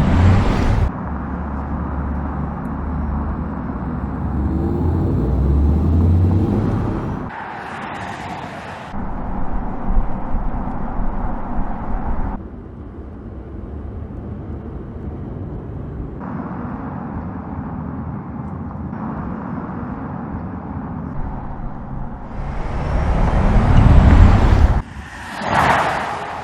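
Audi RS e-tron GT electric sports car driving: tyre and road noise with rising sweeps as it accelerates and passes, broken into several short clips by abrupt cuts. It is loudest as the car passes close, near the end.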